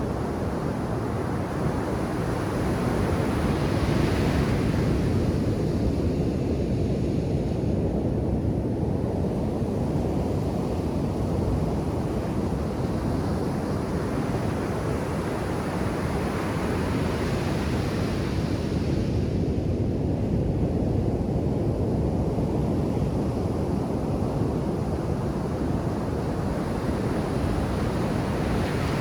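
Ocean surf on a beach: a continuous low rush of waves, with waves breaking and washing up with a brighter hiss about four seconds in and again a little past the middle.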